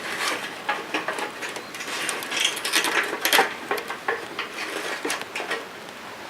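A run of irregular clicks, taps and rustles, like gear being handled by hand, busiest in the middle and tailing off near the end.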